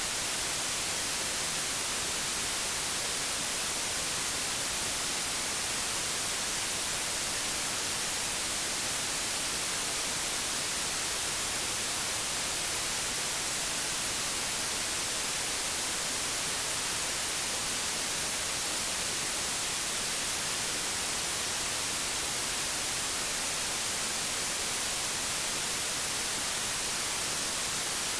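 Old television set's static: a steady, unchanging hiss, strongest in the treble, with no tones or clicks.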